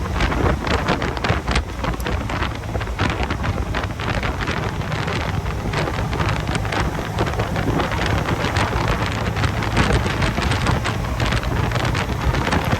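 Wind buffeting the microphone in gusts over the steady engine and road noise of a 1977 MGB Roadster, with its 1,950cc Stage 2 engine, cruising on the road.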